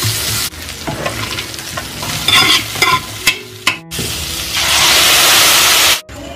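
Vegetables stir-frying in a hot wok, with a spatula scraping and clicking against the pan. About four seconds in, sauce is poured into the wok and a loud, steady sizzle rises, then cuts off suddenly near the end.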